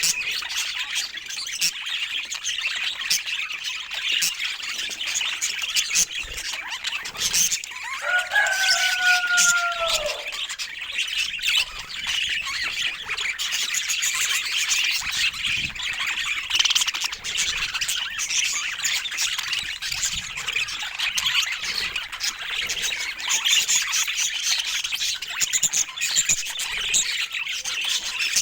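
Budgerigars chattering and chirping continuously, with one longer, falling call about eight seconds in.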